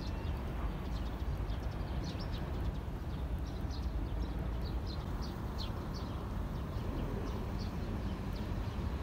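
Small birds chirping in quick, short high notes several times a second, over a steady low rumble.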